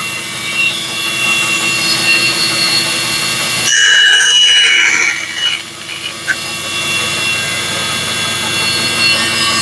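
Bandsaw running, its blade cutting out a pattern piece, with a steady motor hum under the cutting noise; the sound shifts a little past a third of the way in and eases briefly just past halfway.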